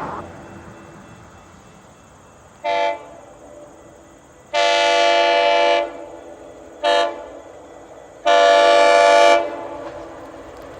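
GO Transit commuter train's horn sounding four blasts, short, long, short, long, as it approaches a level crossing. Each blast is a multi-note chord.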